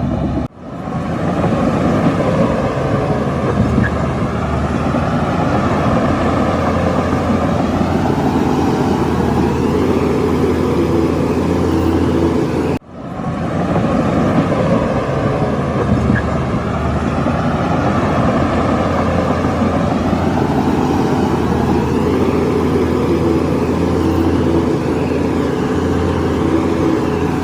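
Heavy diesel earthmoving machinery running steadily, its engine note slowly rising and falling with the load. The sound drops out sharply and fades back in twice, about half a second in and about 13 seconds in.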